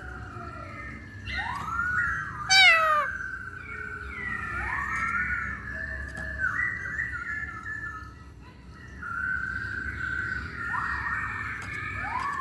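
Poksay hongkong (black-throated laughingthrush) singing a varied run of clear whistled notes that arch and slide up and down in pitch, with a loud, quickly falling note a few seconds in and a short lull about two-thirds of the way through.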